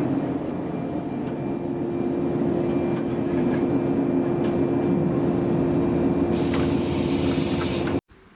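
Old JNR-type electric train running on the rails, with a steady low hum and thin high wheel squeal in the first few seconds. A burst of hiss comes in about six seconds in, and the sound cuts off suddenly about eight seconds in.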